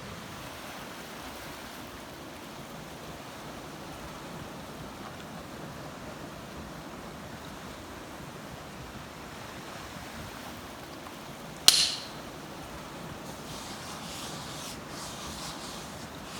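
Steady wash of ocean surf. About two-thirds of the way through comes a single sharp click, the loudest sound, followed by a few seconds of light rustling.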